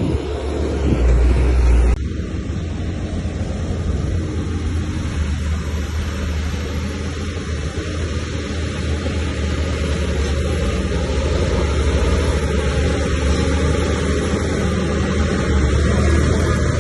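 Heavy earthmoving machine's diesel engine running under load, a steady low rumble with an abrupt drop in level about two seconds in.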